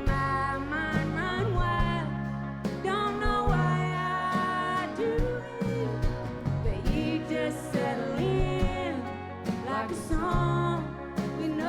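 Live band playing a country-rock song, with singing over steady bass notes and regular drum hits.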